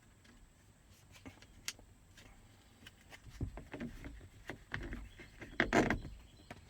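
Scattered small clicks, taps and handling noise of plastic and metal parts as a car's dome light assembly is refitted by hand, busier in the second half, with the loudest clatter near the end.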